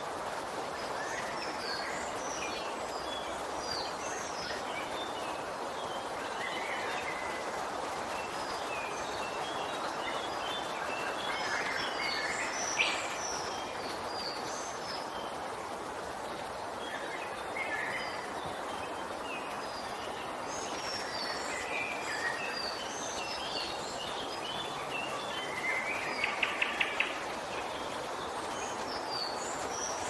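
Woodland birds chirping and singing, many short calls scattered throughout over a steady background noise. There is one sharp note about halfway through, and a quick run of about five sharp notes near the end.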